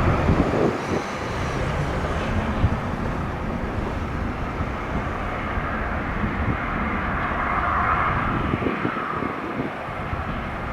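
Jet engine noise of a departing Airbus A319 climbing away, a broad rumble that fades over the first few seconds and then holds steady.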